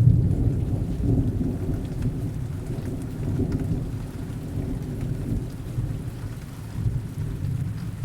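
Heavy rain falling steadily while a low rolling rumble of thunder, loudest at the start, slowly dies away.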